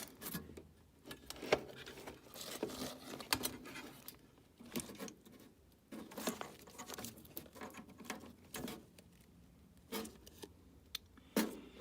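Irregular small clicks, taps and scrapes of hand tools and small metal parts being handled, at an uneven pace.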